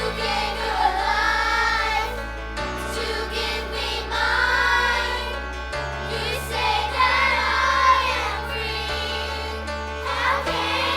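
A group of voices singing a slow Christian song over sustained low chords that change every few seconds.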